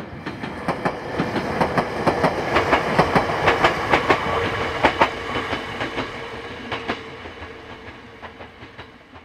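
Ueda Electric Railway Bessho Line electric train passing by, its wheels clacking over rail joints with a steady tone underneath. The clacking grows louder, peaks about four to five seconds in, then fades as the train moves away.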